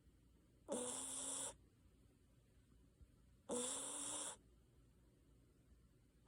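A Basenji dog snoring: two raspy snoring breaths about three seconds apart, each under a second long with a low steady tone beneath the rasp.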